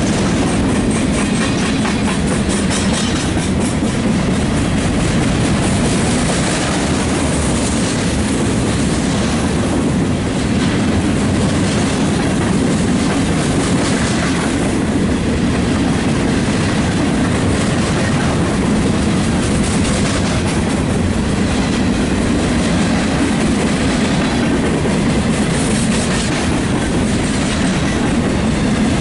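Loaded freight train of open-top dirt gondola cars rolling steadily past at close range, its steel wheels rumbling and clacking on the rails.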